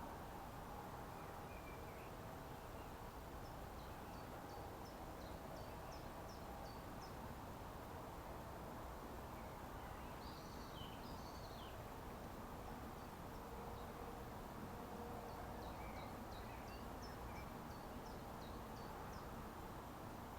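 Small birds calling over the steady rush of a small stream: two runs of short, quick, falling chirps, with a brief warbling phrase in the middle.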